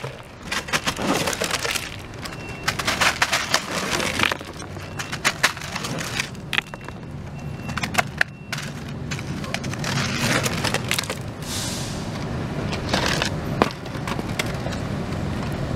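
Irregular crunching, cracking and knocking of hail-broken debris on the RV roof being disturbed.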